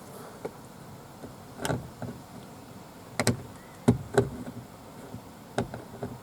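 Irregular sharp clicks and knocks of a screwdriver with a Torx bit working on a screw in a car's plastic door panel, about seven in all, the loudest a little past halfway.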